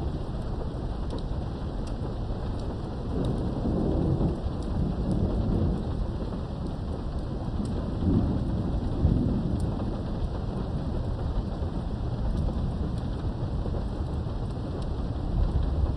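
Thunderstorm heard through a window: steady rain with thunder rumbling low, swelling about three seconds in and again around eight seconds, with faint scattered drop ticks.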